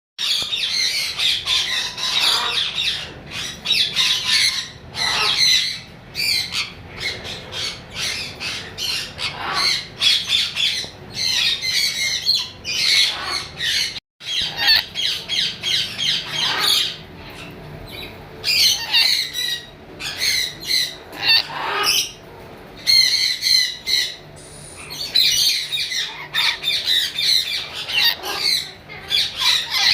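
Lory parrot squawking over and over in harsh, rapid runs with short pauses between them, broken by a brief silence about halfway through.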